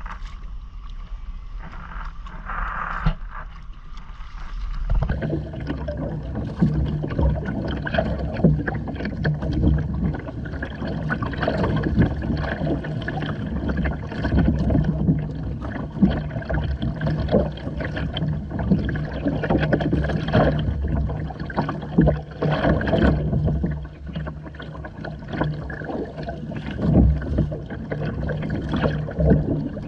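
Water splashing and gurgling against the hull of a Hobie Island sailing kayak under way, with wind on the microphone. About five seconds in the sound gets louder and fuller, with a steady low hum underneath.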